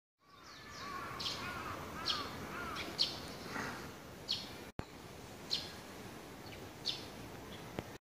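Small birds calling among garden trees: sharp, short high chirps about once a second, with a few lower curved whistled notes in the first couple of seconds, over a steady outdoor background hiss.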